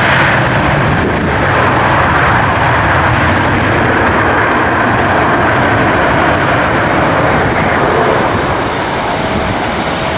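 Jet engine noise from an Alaska Airlines Boeing 737-900ER's CFM56 turbofans as the airliner passes. It is a steady, loud rush that eases off slightly near the end.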